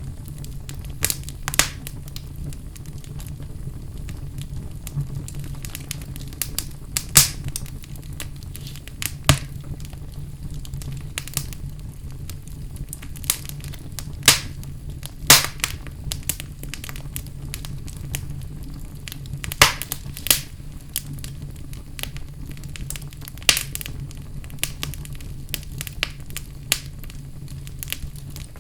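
Wood fire in a fireplace crackling: sharp, irregular pops and snaps, some much louder than the rest, over a steady low rumble.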